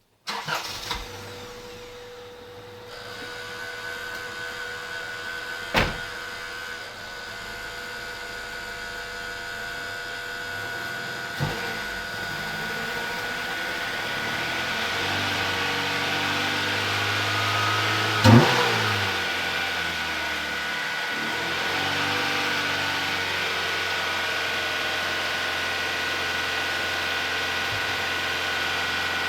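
1994 Acura Integra's four-cylinder engine running with a Seafoam treatment in its fuel, crankcase and intake, which is meant to clean out the deposits behind its high hydrocarbon readings. The engine speed rises and shifts in the middle, and a few sharp knocks cut through, the loudest about 18 seconds in.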